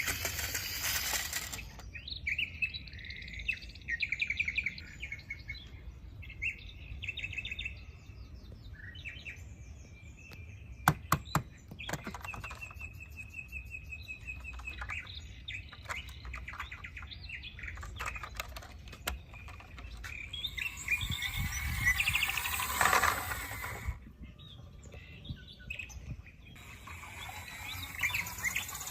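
Birds chirping and trilling in repeated short phrases, with a few sharp clicks about eleven seconds in and bursts of hiss partway through and near the end.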